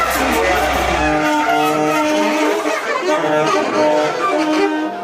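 Improvised experimental music for two saxophones and live electronics: long held tones that overlap and shift every second or so, with a low hum under the first second.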